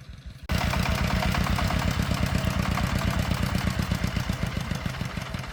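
Single-cylinder diesel engine of a công nông farm truck running with a rapid, even thumping beat, becoming suddenly much louder about half a second in.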